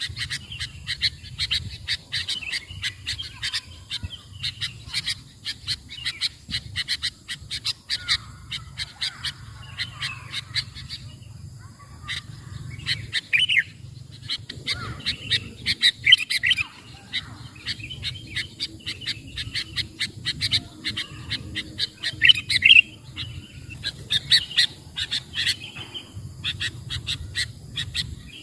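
Sooty-headed bulbuls (kutilang) calling and chattering, a dense run of rapid, sharp repeated chirps with louder call phrases now and then, over a low steady rumble.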